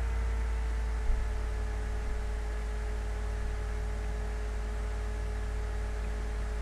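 A steady low rumble and hum with faint steady tones over a soft hiss. A small knock comes about a second in.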